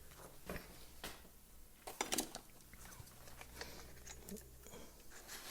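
Light clicks and taps of small parts and tools being handled during disassembly of a petrol line trimmer, a few louder ones about two seconds in, over a faint steady hum.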